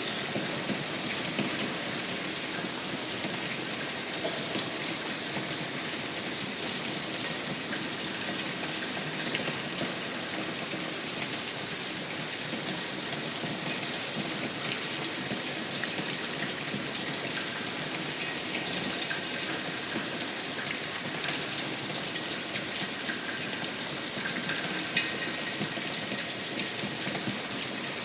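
Steady heavy rain, an even hiss with faint scattered drop ticks.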